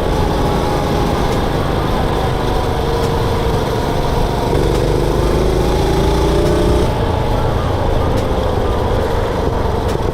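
Mini bike's Predator 212cc single-cylinder engine running under way, its pitch shifting up and down with the throttle, with wind rumble on the microphone.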